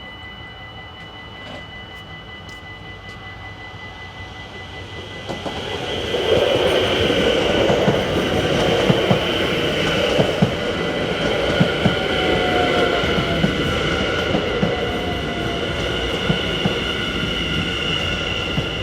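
A Dutch level crossing's electronic warning bells ring with a steady high tone. About five seconds in, a train arrives and runs over the crossing, a loud continuous rumble with repeated clacks of wheels over rail joints and squealing wheels, and the bells go on ringing underneath.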